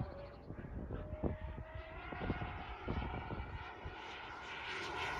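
Electric ducted-fan motor of an FMS BAE Hawk model jet whining in flight, growing louder and rising slightly in pitch toward the end as it comes closer. Gusts of wind thump on the microphone.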